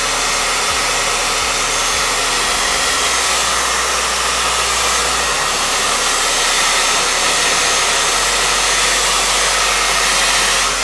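Blow dryer running steadily, a loud even rushing noise, as it dries and flattens gelled hair.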